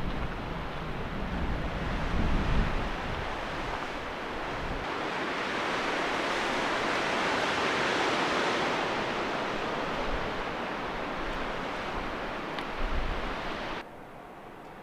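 Strong gusting wind rushing steadily, swelling to its loudest in the middle, with low buffeting of the wind on the microphone near the start and again near the end; it drops off suddenly shortly before the end.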